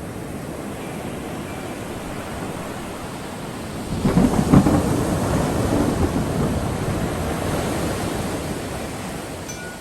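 Thunder: about four seconds in a sharp crack breaks into a low rolling rumble that slowly fades, over a steady wash of rain and surf.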